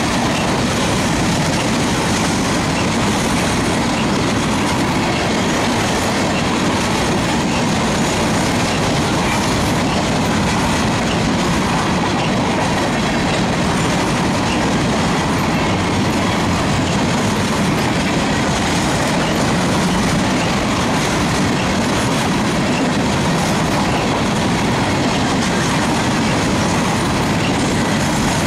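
Covered hopper cars of a long freight train rolling past at close range, steel wheels clacking and rumbling steadily on the rails.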